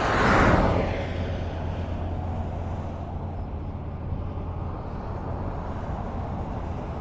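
Highway traffic: a vehicle passes close by just after the start, its tyre noise swelling and then falling away, leaving a steady low rumble of traffic. Another vehicle starts to approach near the end.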